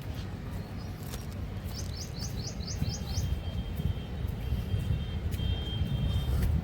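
Bird calling: a quick run of about seven short, falling high notes about two seconds in, then thin, steady high notes, over a continuous low rumble.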